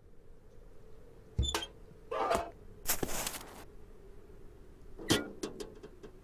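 Cartoon sound effects: a thump, a short crunching noise, then a brief hissing rush about three seconds in, and another thump followed by a quick run of small clicks near the end.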